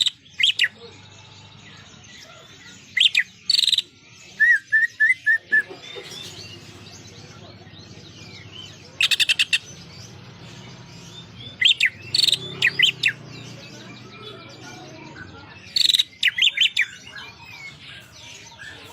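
Green leafbird (cucak ijo) singing in separate loud bursts of high whistled and chattering phrases. Its song is filled with imitations of the prinia (prenjak), including a quick run of about six short repeated notes and a rapid dense chattering burst.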